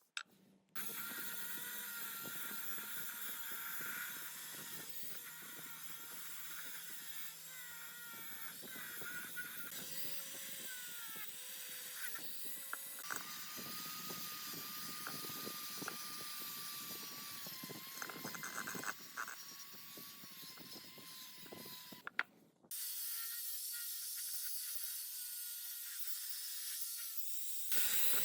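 Metal workshop work: a steady machine whine with many scattered mechanical clicks. It cuts out briefly just after the start and again about 22 seconds in.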